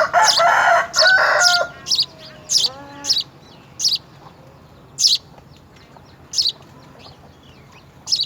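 Birds calling: a loud harsh call with several layered tones in the first second and a half, then a brief lower call, over short high chirps repeating about once a second.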